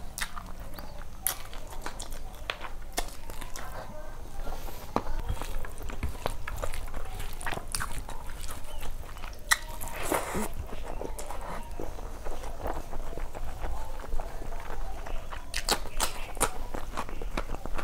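Close-up eating sounds of rice and chicken curry eaten by hand: chewing with frequent wet smacks and clicks, and fingers mixing rice on a steel plate.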